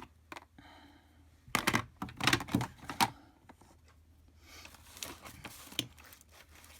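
Rummaging through craft supplies: small hard objects clack and knock together in a quick run about one and a half to three seconds in, followed by softer shuffling and rustling.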